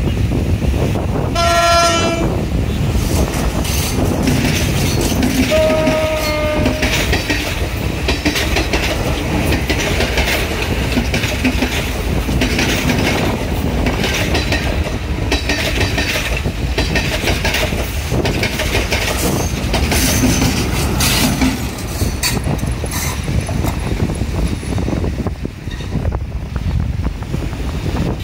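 Sri Lanka Railways Class S9 diesel multiple unit, a two-unit double set, sounding two horn blasts, one about a second and a half in and one about six seconds in. It then runs past with a steady rumble and a regular clickety-clack of its wheels over the rail joints, which fades after about twenty seconds.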